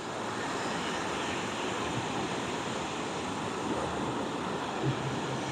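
Surf breaking and washing onto the beach, a steady rush of waves, with wind on the microphone.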